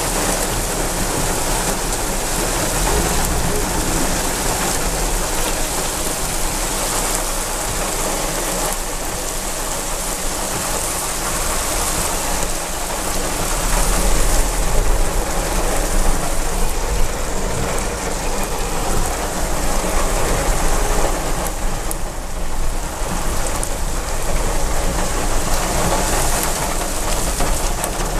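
Heavy rain falling steadily, growing a little louder about halfway through.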